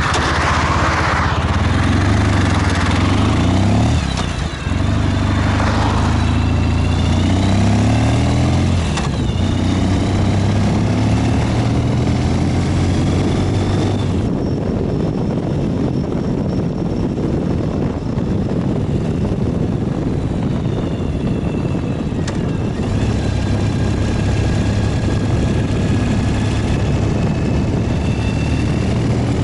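Ural 750 motorcycle's flat-twin engine running on the move under steady road noise. Its note rises and falls with acceleration and a gear change through the first several seconds, then settles into a steady cruise.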